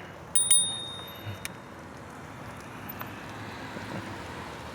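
E-bike disc brakes squealing in a high steady whine for about a second as the bike slows, cutting off with a click, followed by steady wind and tyre noise.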